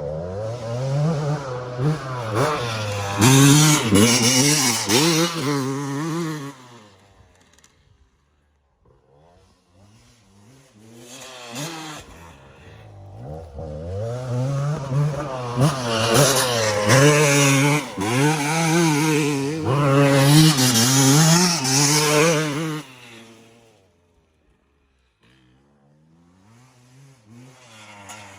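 Yamaha YZ250 two-stroke single-cylinder motocross bike revving hard, its pitch climbing and dropping as the throttle opens and closes through the gears. It is loud for several seconds and fades almost away about eight seconds in. It comes back loud for about ten seconds, then fades again near the end.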